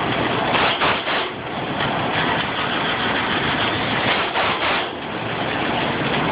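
Truck engine running steadily, with a louder rush about a second in and again near the five-second mark.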